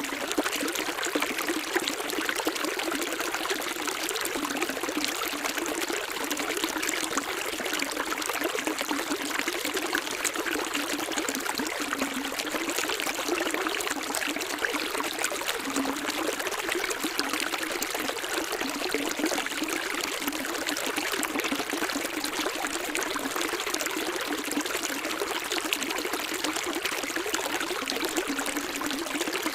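Running water flowing steadily, a light splashing trickle with little deep rumble.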